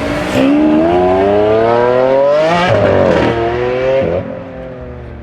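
Akrapovič-exhausted twin-turbo V8 of a tuned Audi RS6 C8 accelerating hard. Its note rises steadily and drops sharply at an upshift about two and a half seconds in. It pulls briefly in the next gear, then eases off about four seconds in to a lower, steadier note.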